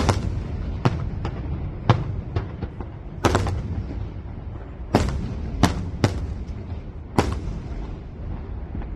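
Fireworks display: about ten sharp bangs of bursting shells at irregular intervals, over a steady low rumble.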